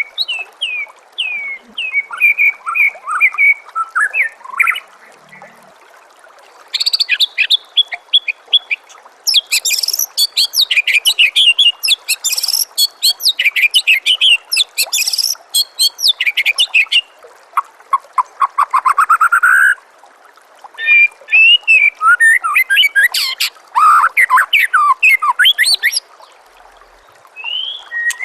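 White-rumped shama (murai batu) singing in long bouts of fast, varied whistled notes and trills, including a quickly rising series of notes near the middle, with short pauses between bouts. A steady trickle of running water sits underneath.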